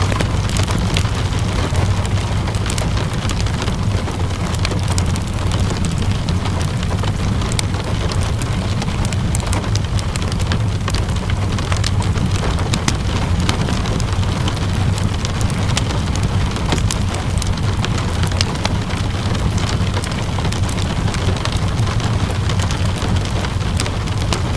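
Steady rain mixed with a crackling wood fire: a constant hiss and low rumble, with small irregular pops and snaps scattered throughout.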